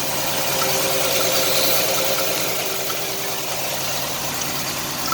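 1989 Chevrolet Celebrity's 2.8 V6 idling roughly with an uneven, pulsing beat: it is still misfiring from a massive vacuum leak through the crankcase vent line and has not yet smoothed out. The owner suspects failed lower intake manifold gaskets.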